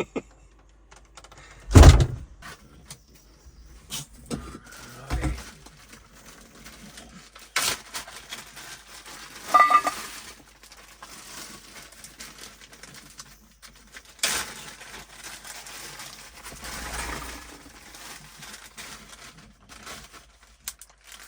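Scattered thumps, knocks and rustles of handling and movement in a small room, the loudest a low thump about two seconds in, with a brief squeak about halfway through.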